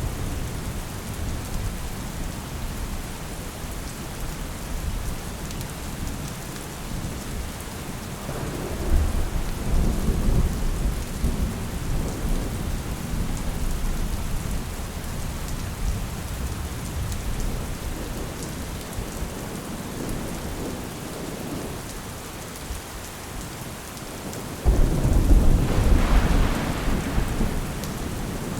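Steady rain with thunder. A low rumble rolls in about nine seconds in, and near the end a sudden loud thunderclap breaks and rolls on for a few seconds.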